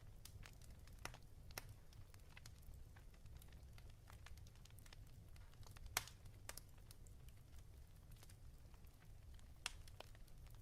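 Faint wood fire crackling: irregular sharp pops and snaps over a low rumble, with one louder pop about six seconds in.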